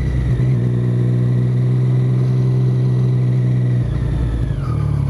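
Motorcycle engine through an Arrow aftermarket exhaust, holding a steady note under throttle. About three-quarters of the way through the throttle is rolled off and the note drops and breaks up as the bike slows.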